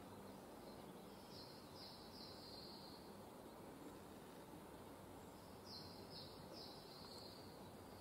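Faint outdoor ambience with a small bird's high call, three short notes in a row, heard twice: about a second in and again near six seconds.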